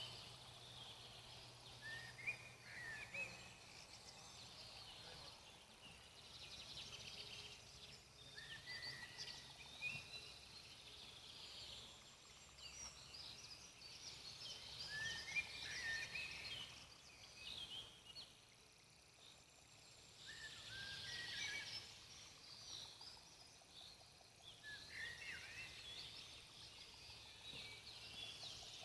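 Faint songbirds chirping in short bursts of quick high notes every few seconds, over a quiet, steady outdoor background.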